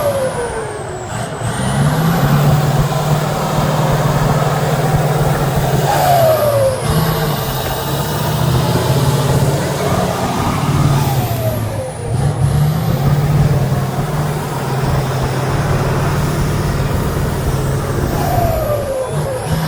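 Truck diesel engine running steadily under load, with a short falling whistle about every six seconds.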